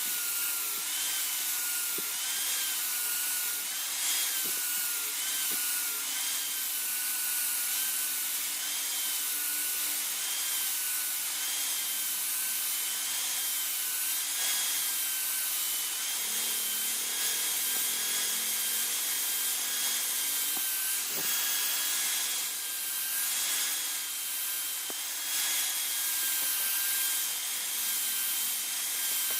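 Power grinder running steadily against the khukuri workpiece: a continuous abrasive hiss over a motor whine that wavers slightly in pitch as the load changes.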